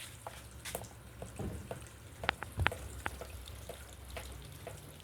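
Rain dripping, heard as scattered irregular drops ticking on a hard surface, over a faint low hum.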